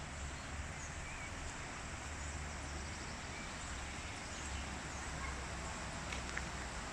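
Steady outdoor background noise with a low rumble, and a few faint, short, high chirps scattered through it.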